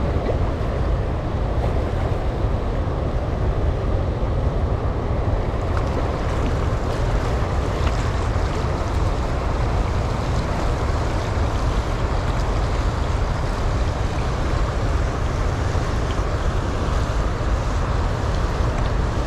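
Steady, loud rush of water pouring through a dam's open flood gates, with wind buffeting the microphone.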